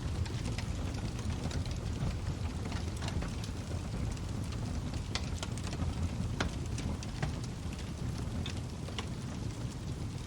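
Wood log fire burning in a fireplace: a steady low rumble of the flames with frequent sharp, irregular crackles and pops from the burning logs.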